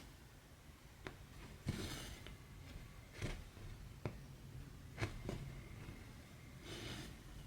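Cross-stitch needle and embroidery thread being worked through fabric, close up. There are a few sharp ticks as the needle pierces the cloth and several short swishes as the thread is drawn through.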